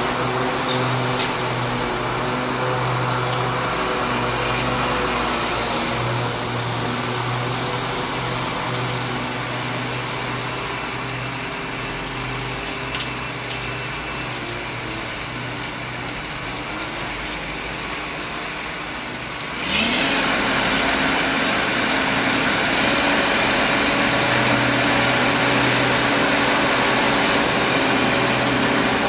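Heavy construction machinery engine running steadily under work. About two-thirds of the way through, the sound steps up sharply in level and stays louder.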